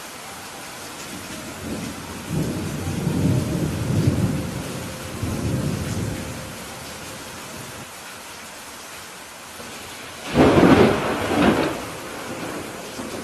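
Steady rain falling during a thunderstorm. A low rumble of thunder rolls in about two seconds in and dies away over some four seconds, then a louder, sharper thunderclap comes near the end and rumbles off.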